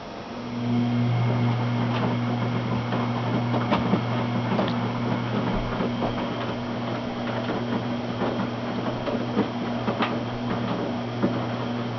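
Washing machine running: a steady motor hum starts about half a second in, with irregular clicks and knocks throughout.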